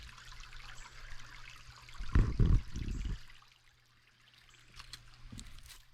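Small creek trickling, a steady hiss of running water. About two seconds in, a loud low rumble lasts about a second and covers it, after which the water sounds fainter.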